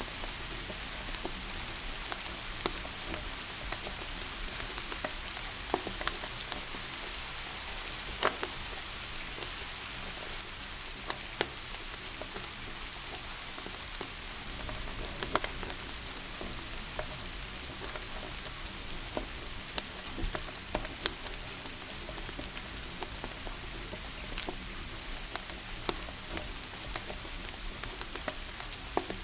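Steady rain hiss with a wood fire crackling, giving irregular sharp pops every second or two.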